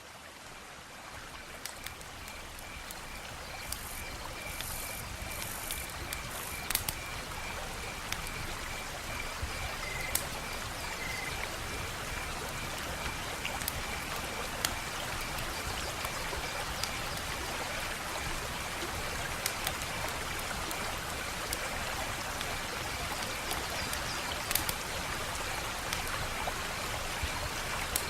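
Wood fire crackling: a steady hiss with scattered sharp pops and snaps, fading in over the first few seconds. A regular high chirp repeats in the background, about three times a second.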